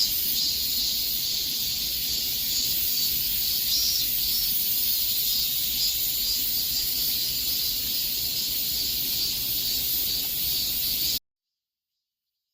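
A chorus of cicadas buzzing in a dense, steady, high-pitched drone, which cuts off suddenly to silence near the end.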